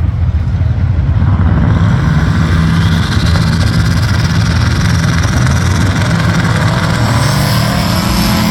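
Drag-racing cars running hard at full throttle down the strip, a loud, steady engine noise that grows brighter as they pull away.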